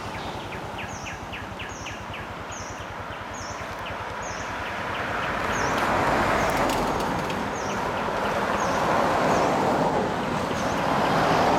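Forest ambience: a short high chirping call repeated about once or twice a second, over a rushing noise that swells in the middle and again near the end.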